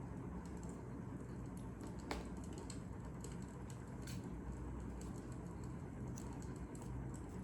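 Wood fire crackling: irregular small pops and snaps over a low steady rumble, with a couple of sharper snaps about two and four seconds in.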